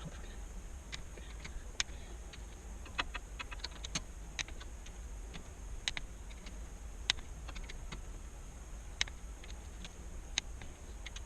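Click-type torque wrench clicking on the cylinder head bolts of a Chevy 350 marine engine, one sharp click at a time at irregular intervals of about a second, as each bolt is rechecked at the 22 ft-lb first-pass torque.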